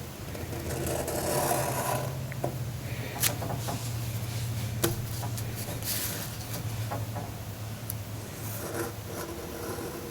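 Ink pen scratching along construction paper in uneven strokes, with paper rubbing and a couple of sharp light clicks, as a hand is traced.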